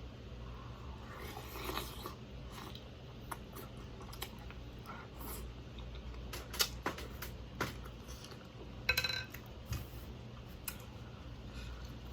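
Quiet eating sounds from a seafood boil: chewing, with scattered small clicks and taps of utensils and shells, a few sharper ones past the middle.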